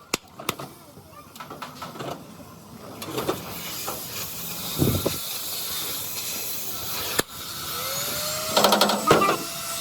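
Truck repair workshop noise: scattered sharp knocks and clicks, then a power tool running steadily from about three seconds in, with a brief rising whine near the end and voices over it.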